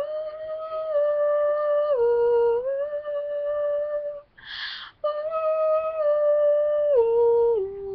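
A young woman humming a melody in long held notes that step up and down in pitch, with one quick breath in about halfway through.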